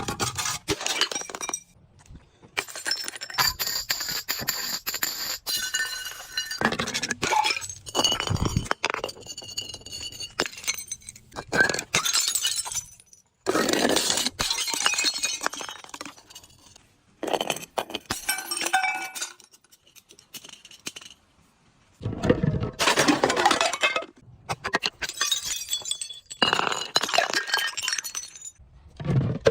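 Glass being crushed and breaking in repeated bouts of crunching and clinking, with short pauses between bouts and brief ringing of glass pieces.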